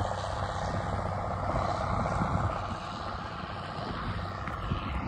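Vehicle engine running steadily at a constant speed, a continuous low drone with a fine, even pulse.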